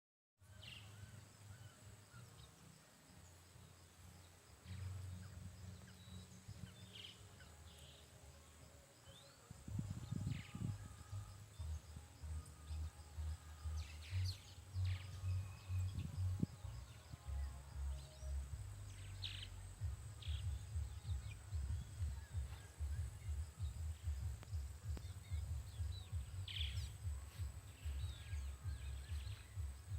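Wind buffeting the microphone as an uneven low rumble, growing louder and gustier about ten seconds in, with scattered short bird chirps over it.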